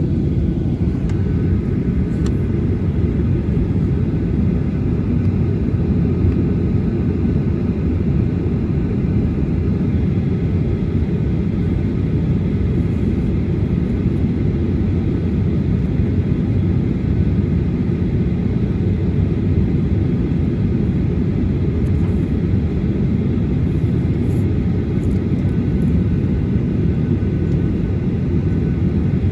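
Cabin noise of a Boeing 737-800 taxiing: the CFM56-7B engines at low taxi power give a steady, deep rumble, with faint tones above it.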